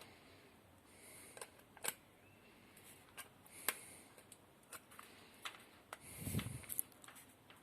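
Small, sharp clicks and taps of hard parts being handled, scattered irregularly, with a short, louder dull knock about six seconds in.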